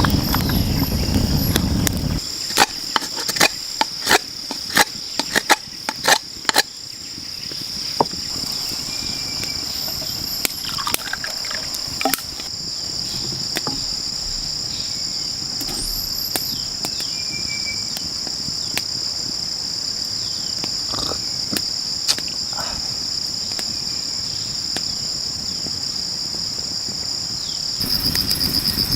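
Rainforest insect chorus, a steady high-pitched drone, with a few short bird chirps and whistles over it. Early on comes a run of about a dozen sharp knocks or cracks over some four seconds, and a low rushing noise is heard at the very start and again near the end.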